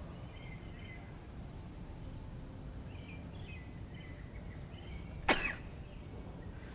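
Faint bird chirps over steady outdoor background noise, with one sharp knock about five seconds in.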